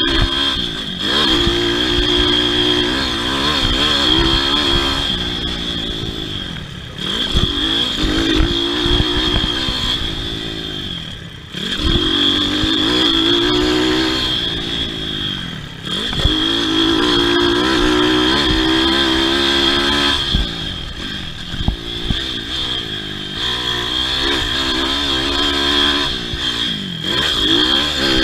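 Pit bike's four-stroke single engine racing over a motocross track. The engine revs up and drops off again every few seconds as the throttle is worked through the corners, under a steady high whine and some clatter.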